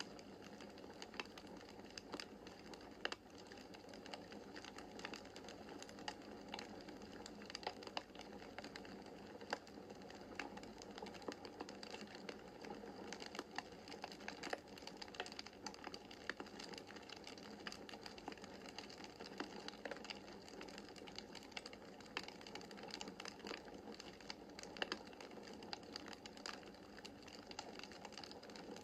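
Wood fire in a fireplace crackling: many irregular small pops and snaps over a steady hiss of flames.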